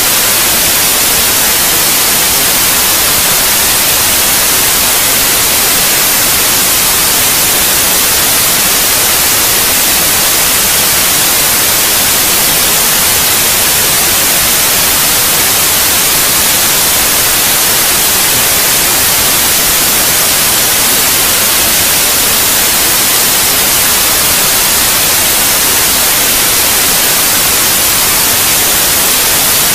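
Steady white noise: a loud, even hiss that doesn't change, strongest in the high frequencies.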